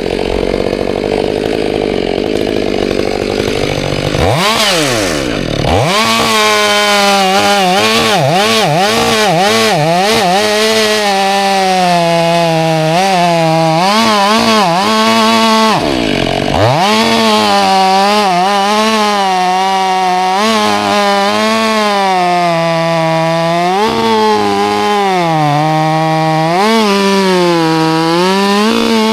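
Two-stroke chainsaw cutting timber, its engine note wavering as it loads and recovers in the cut. The revs drop away and climb back twice, about four seconds in and again around sixteen seconds.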